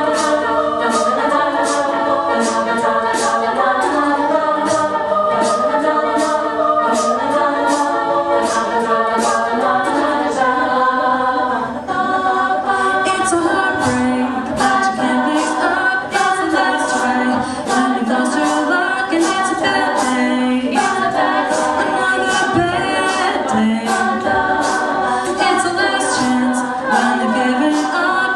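Female a cappella group singing in close harmony: several voices holding wordless chords, with sharp percussive hits keeping a steady beat about twice a second.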